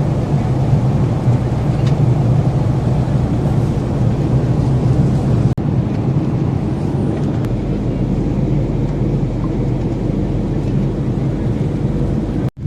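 Steady low drone of a Boeing 737's passenger cabin: engine and airflow noise. It cuts out for an instant about five and a half seconds in and again near the end.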